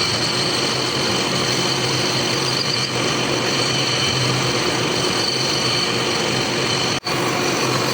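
Workshop machine motor running steadily: a constant hum under a high, steady whine and hiss, broken by a momentary gap about seven seconds in.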